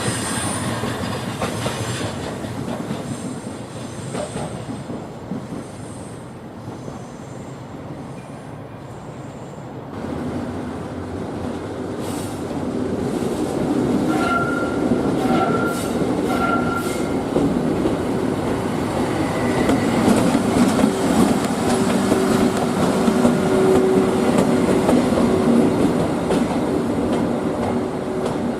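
A train running on the rails, with clicking over rail joints and wheel squeal. It grows louder about a third of the way in, with a few short high squeals a little later.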